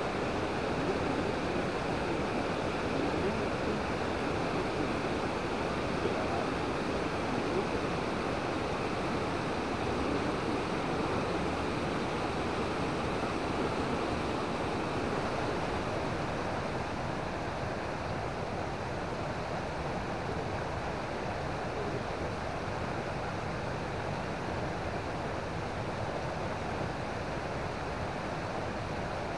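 Waterfall water rushing, a steady even noise that eases slightly about halfway through.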